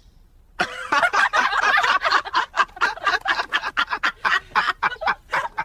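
Rapid bird chatter: a long run of short, quick calls that starts about half a second in, after a brief hush.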